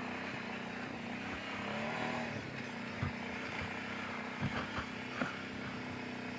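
Kawasaki Brute Force 750 ATV's V-twin engine running steadily at low speed on a trail, rising and falling slightly in pitch about two seconds in, with a few short knocks from the machine going over the trail.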